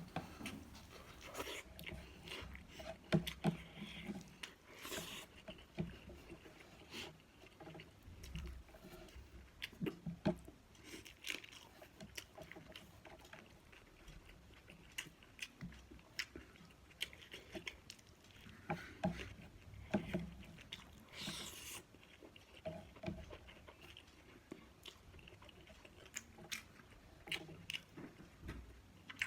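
Close-up mukbang eating sounds: a person chewing and biting food near the microphone, with irregular wet smacks and crunches.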